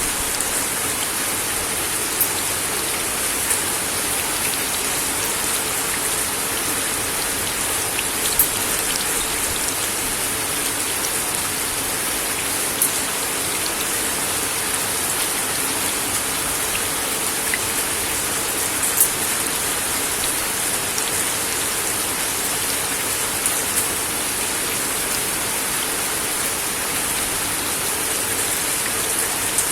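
Steady rain falling on a wooden deck, an even hiss with occasional louder single drops landing close by.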